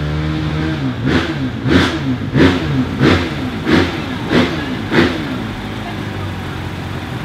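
Motocross bike engine idling, then blipped seven times in quick succession, each rev rising and falling about every two-thirds of a second, before it drops back to idle.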